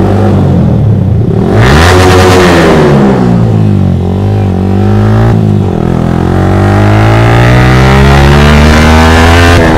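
Yamaha R15 V3's 155 cc single-cylinder engine pulling away hard. Its revs rise and drop back at two upshifts, around four and five seconds in, then climb steadily as the bike gathers speed.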